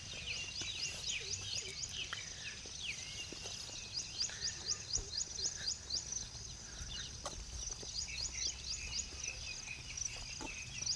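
Birds chirping and calling outdoors: runs of rapid, high, repeated chirps at about five a second, in bursts near the start, in the middle and at the end, with other scattered calls between them.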